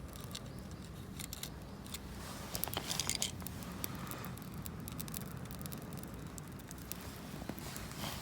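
Rustling and crinkling of camping gear being handled, with scattered small clicks and a brief louder rustle about three seconds in.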